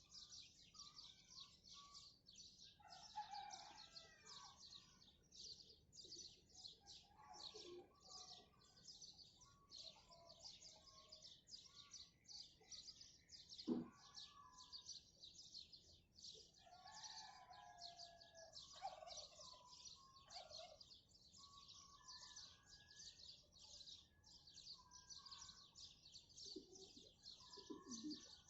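Faint dawn chorus of many small birds chirping continuously, with domestic fowl calling at intervals from several spots in the background. A single sharp click sounds about halfway through.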